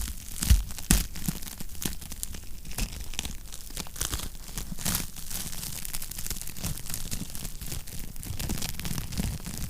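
Wood fire crackling in a fireplace: irregular pops and snaps over a steady low rumble, with two louder pops about half a second and a second in.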